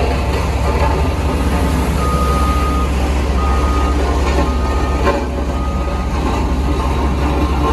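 Heavy construction machinery's diesel engine running with a steady low rumble, and a reversing alarm beeping four times from about two seconds in, each beep about half a second long. A short knock comes about five seconds in.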